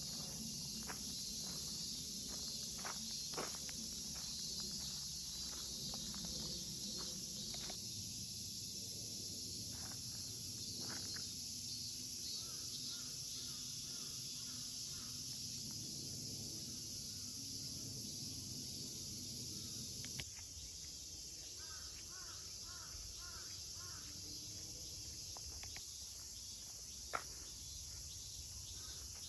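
Woodland ambience: a steady high insect drone over a faint low rumble, with scattered soft clicks in the first several seconds. A small bird calls in quick runs of short notes twice, around the middle and again after two-thirds in. One sharp click comes near the end.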